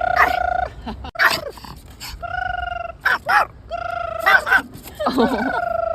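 A Pomeranian dog 'talking' in a run of short, high-pitched howling whines, some held steady and some wavering, broken up by quick yips.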